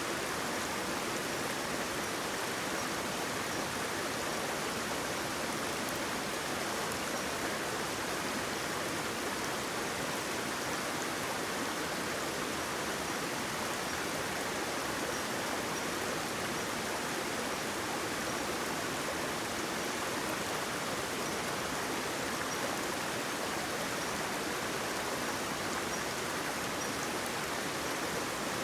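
Water pouring over a small waterfall: a steady, even rush with no breaks.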